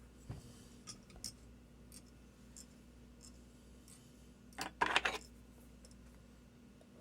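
Small sharp clicks and handling noises from tools and materials at the tying bench while a lure is tied by hand, a few light ones early and a louder cluster of clicks and rustling about five seconds in, over a steady low hum.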